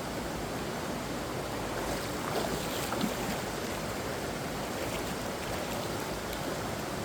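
Steady rushing noise of water, with a few faint light knocks around the middle.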